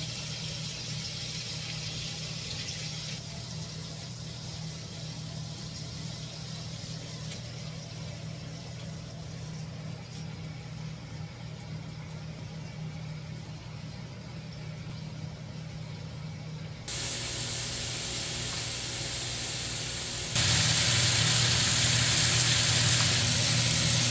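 Food frying in oil in pans on a gas stove: a steady sizzle over a low hum. The sizzle jumps louder twice, the second time much louder near the end, where sliced yellow squash is frying.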